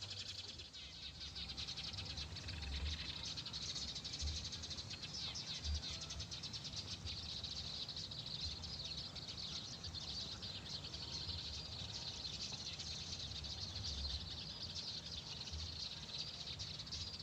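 Many small birds chirping in a dense, continuous rapid chatter, with occasional soft low thumps.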